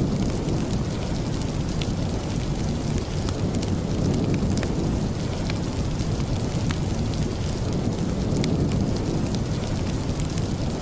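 Steady rain with a deep continuous rumble underneath, mixed with scattered sharp crackles from a wood fire.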